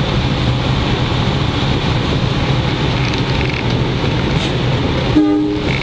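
A PATH rapid-transit train rolling past on the adjacent track, close by, heard from inside a standing train: a steady rumble and rail noise with a low hum. About five seconds in, a short pitched tone sounds briefly.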